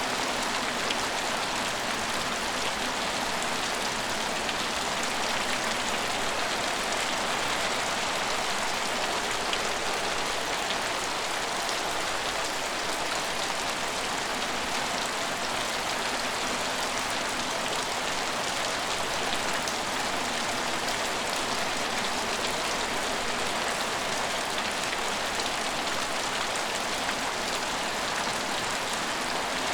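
Steady rain falling: a dense, even hiss of drops that stays the same throughout.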